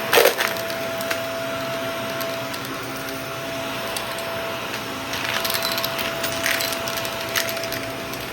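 Shark vacuum cleaner running with a steady whine while it picks up a small mess of debris. The debris makes sharp clicks and crackles as it is sucked in, a couple right at the start and a cluster between about five and seven and a half seconds in.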